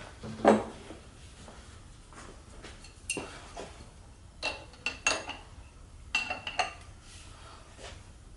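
Metal hand tools clinking and knocking against the engine and transmission parts: a dull knock about half a second in, then scattered sharp, ringing metallic clinks in small clusters.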